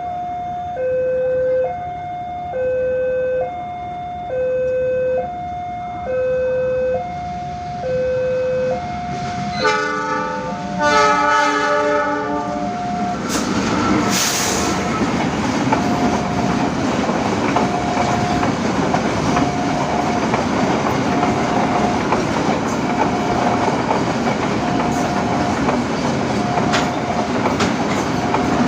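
An electronic warning bell alternates between two tones about once a second; about ten seconds in, a diesel locomotive's multi-note horn sounds a short blast then a longer one. Then the tanker freight train runs past with a steady rumble and clickety-clack of wheels over rail joints, while the warning bell keeps ringing on a single tone under it.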